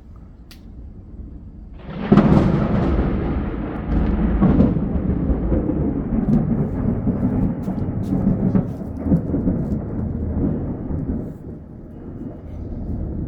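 Thunder: a sudden thunderclap about two seconds in that breaks into loud rolling rumble, swells again a couple of seconds later, and slowly dies away near the end.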